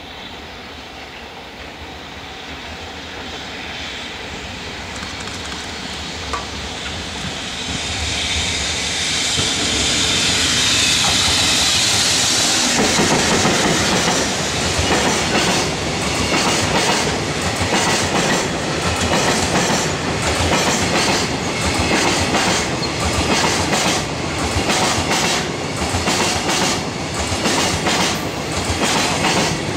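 A JR Freight EF65 DC electric locomotive hauling a container freight train approaches and passes close by, its sound building over the first twelve seconds or so. After it has passed, the Koki container wagons roll by with a steady, rhythmic clickety-clack of wheels over rail joints.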